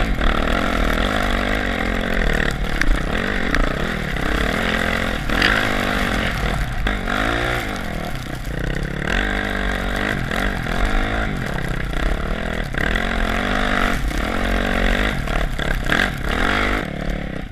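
Yamaha WR450F's single-cylinder four-stroke engine running while riding, its pitch rising and falling again and again as the throttle is worked.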